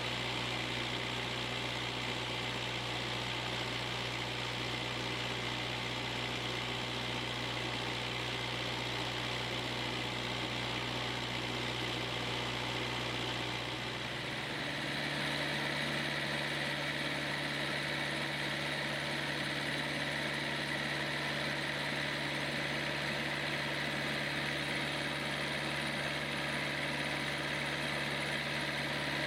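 Kubota V2203 four-cylinder diesel engine running steadily. About halfway through, its speed steps up and then holds at the higher speed.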